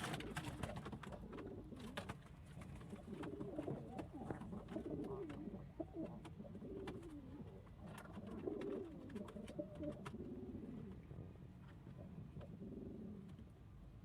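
Domestic pigeons cooing over and over, low warbling coos overlapping one another, with scattered light clicks.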